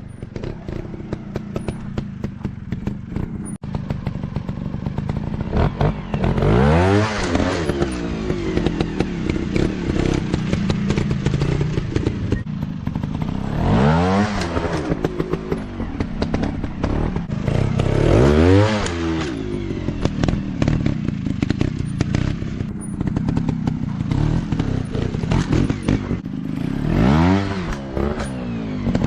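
Dirt bike engine running throughout, revved up hard four times, its pitch rising and falling back each time.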